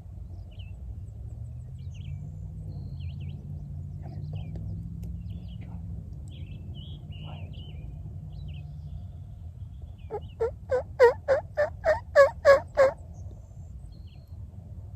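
Turkey yelping: a quick run of about nine loud yelps, starting about ten seconds in and lasting under three seconds. Faint small-bird chirps and a low steady rumble sit underneath.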